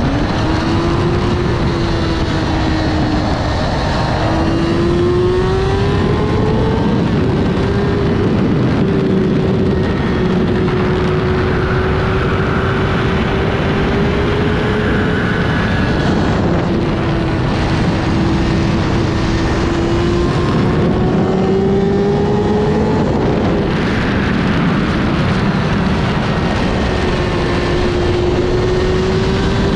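Kawasaki ZX-6R inline-four engine running under way, its pitch rising and falling gently with the throttle, under heavy wind noise.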